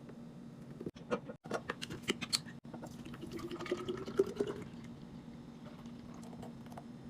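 Liquid being poured into a container, its pitch rising as the container fills, after a few sharp clicks and knocks of containers being handled, over a steady low hum.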